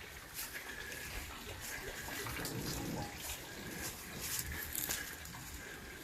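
Light rain falling, with water running and dripping and scattered drops ticking.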